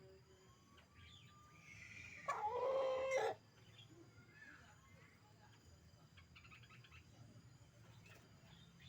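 A rooster crows once, about a second long, a little over two seconds in. Faint short high chirps follow later.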